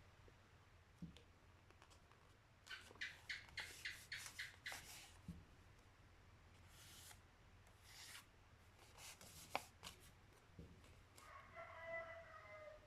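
Faint background: a rooster crowing once near the end, and scattered runs of quick, faint clicks and crackles before it.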